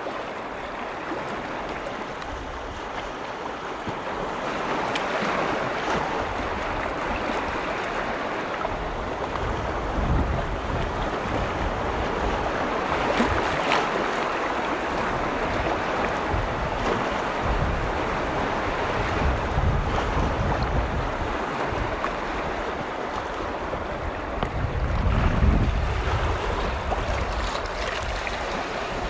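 Waves on a large lake washing in a continuous rush that swells and ebbs, with wind buffeting the microphone in low rumbling gusts several times.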